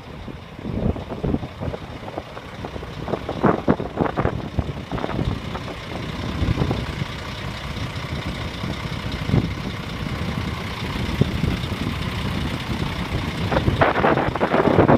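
A heavy truck running, with uneven surges of noise that grow louder near the end.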